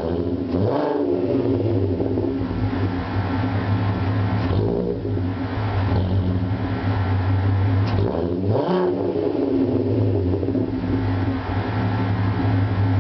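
Volkswagen Jetta 12-valve VR6 idling through an exhaust with no muffler (catalytic converter and resonator kept, 3.5-inch dual tips), blipped up in short revs that rise and fall back to idle: about a second in, again near four and a half seconds, and around eight seconds in.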